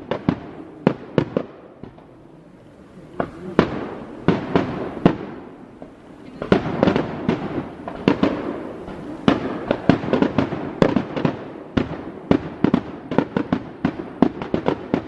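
Aerial fireworks bursting: rapid runs of sharp bangs and pops, each trailing off in an echo. There is a short lull about two seconds in, and the bangs come thickest in the second half.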